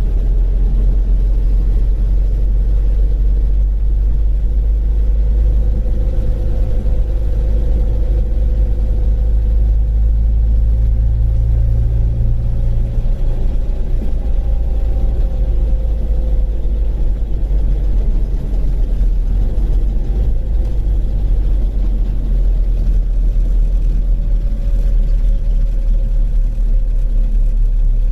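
Rover Mini's A-series four-cylinder engine running: a steady low rumble with engine tones that drift slowly up and down in pitch.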